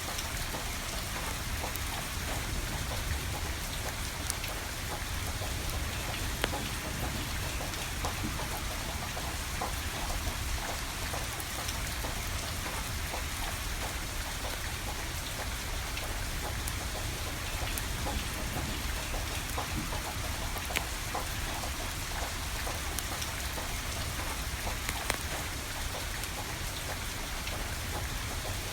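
Steady rain falling, with a wood fire crackling and a few sharper pops from the burning firewood.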